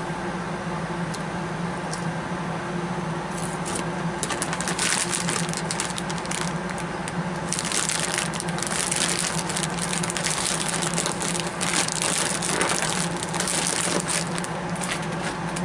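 Close-up chewing of a crunchy, popcorn-like snack: irregular crunching in waves from about four seconds in, over a steady low hum.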